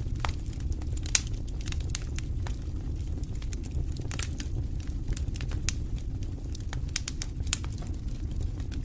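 Wood campfire burning: a steady low rumble of flames with frequent irregular sharp pops and crackles, one loud pop about a second in.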